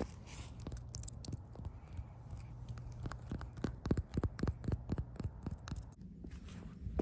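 Close-up scratching and crackling: a fast, irregular run of small sharp clicks over a low rumble, thickest in the second half.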